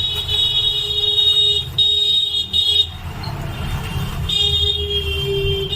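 Vehicle horns honking over a steady low rumble of road traffic: one long blast, two short toots near the middle, then another long blast in the last second and a half.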